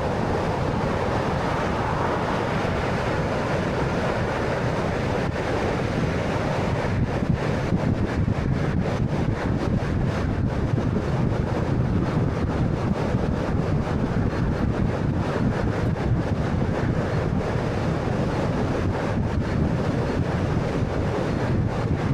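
Steady road and wind noise of a 2013 Honda Fit on the move, a rushing sound with a crackle of wind buffeting on the microphone from about seven seconds in.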